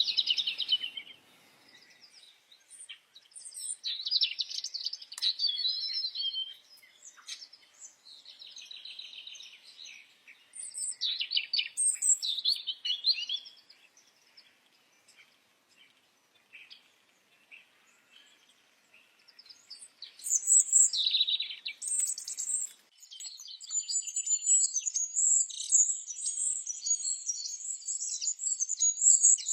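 Songbirds singing in separate phrases of high chirps and trills, with short pauses between them. A quiet spell of several seconds comes midway, and a steady high trill runs near the end.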